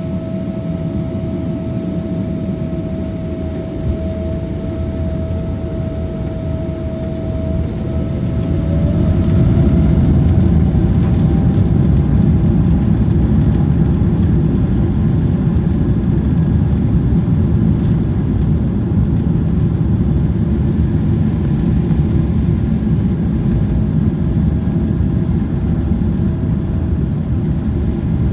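Boeing 777-300ER's GE90 jet engines heard from inside the cabin: a low rumble with a thin steady whine, swelling louder about eight seconds in as the engines spool up, then running loud and steady. The sound is that of takeoff thrust on the takeoff roll.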